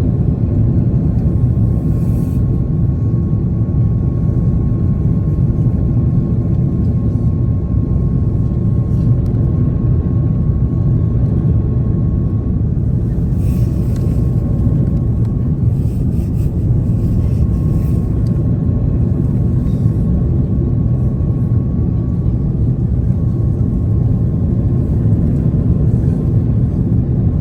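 Steady engine and airflow noise inside an Airbus A330 airliner cabin: a constant low rumble with a faint steady whine.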